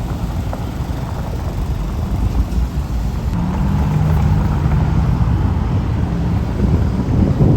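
Roadside traffic noise with a heavy vehicle's engine passing, its low note steady for a few seconds midway and the rumble swelling near the end.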